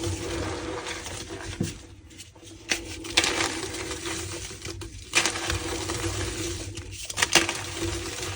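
Reformed gym chalk blocks being crushed and crumbled, a dense crunchy crackling that comes in spells with short pauses between.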